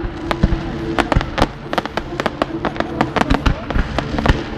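Fireworks going off at a display: a rapid, irregular string of sharp cracks and crackles, several a second, with a few heavier bangs among them.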